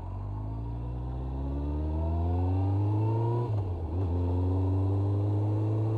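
Honda CBR1100XX Blackbird's inline-four engine pulling away under acceleration, its pitch climbing steadily. The revs drop briefly for a gear change about three and a half seconds in, then climb again.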